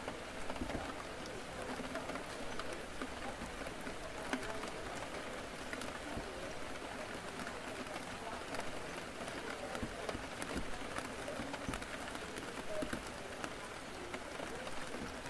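Steady rain falling against a window, many fine drop ticks over an even hiss, with faint indistinct chatter in the background.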